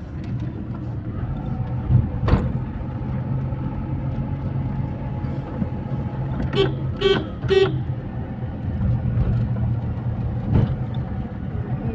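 Road vehicle's engine running steadily, with three quick horn toots about seven seconds in. There are two brief knocks, one a couple of seconds in and one near the end.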